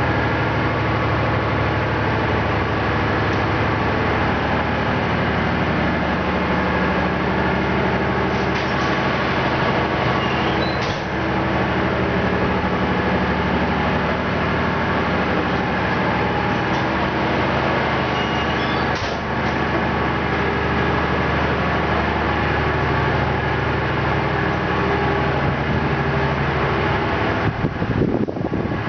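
Ship's engine-room machinery running steadily: a loud, dense hum made of many steady tones over a constant roar. Two brief knocks come through, about a third and about two thirds of the way in.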